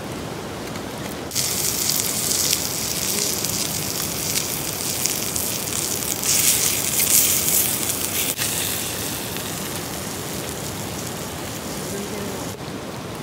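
Meat sizzling and crackling over a wood campfire. A loud hiss that starts suddenly about a second in, grows louder in the middle and dies down shortly before the end.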